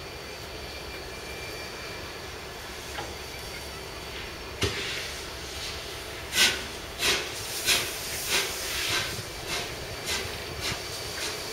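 Train pulling in with a steady diesel-engine drone. About four and a half seconds in there is a sharp knock, followed by a run of rhythmic noisy bursts, roughly one and a half a second, that slowly fade.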